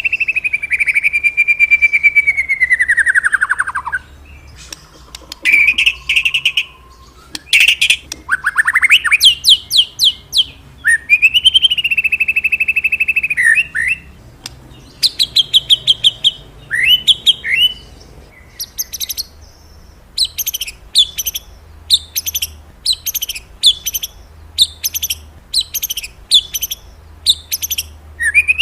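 Murai songbird singing a loud, varied song. It opens with long whistles that slide down in pitch, moves into quick trills and chirps, and near the end repeats a short chirp about once or twice a second.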